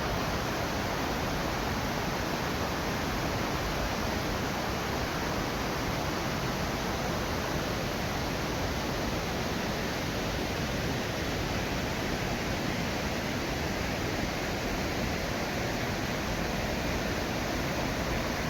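Rushing river water: a steady, even noise that does not change.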